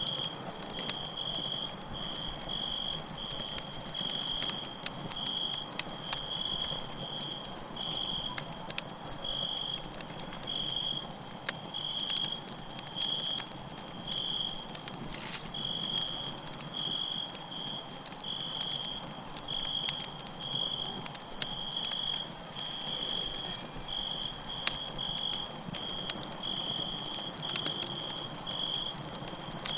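Campfire crackling, with scattered sharp pops, over crickets chirping steadily at one high pitch, about one or two chirps a second.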